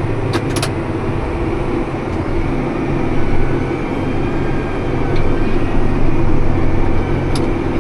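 Tractor pulling a round baler: a steady engine drone under load, with the baler's machinery noise mixed in. A few short sharp clicks come about half a second in and again near the end.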